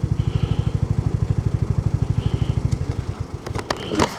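Royal Enfield Hunter 350's single-cylinder engine idling with even low pulses, about ten a second, then switched off about three seconds in. A few sharp clicks follow near the end.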